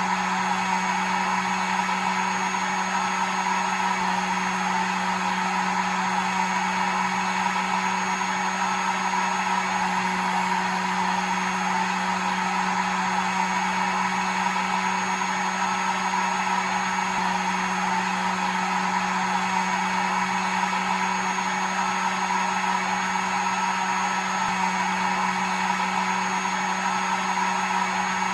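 Hair dryer running steadily: an even blowing rush with a low motor hum and a faint high whine, unchanging throughout.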